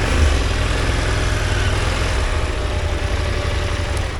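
Enduro motorcycle engine running at low, steady revs.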